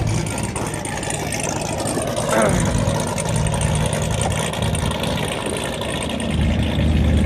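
Car engine idling with a steady low rumble that grows louder about six seconds in.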